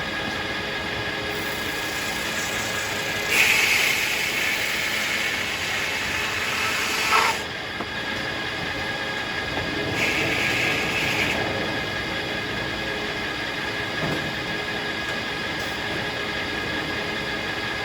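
Circular sawmill running and sawing hackberry logs, a steady mechanical noise with a constant whine. It grows louder and brighter for about four seconds starting about three seconds in, and again briefly about ten seconds in.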